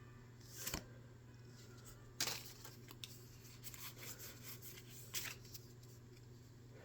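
Faint, brief rustles of Pokémon trading cards being slid and flipped by hand, three or four of them, over a low steady hum.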